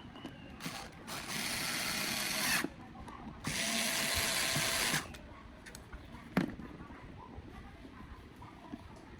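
A power drill running in two bursts of about a second and a half each, followed a little later by one sharp click.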